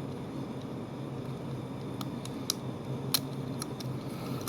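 Small plastic body-kit parts and a diecast toy car being handled: several sharp light clicks and taps in the second half, over a steady low hum.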